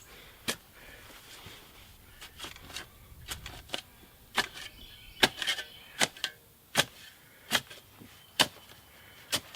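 Sharp chopping strikes of a hand tool cutting through tree roots in the soil around a buried water pipe: a few light hits, then steady strikes about once a second from about four seconds in.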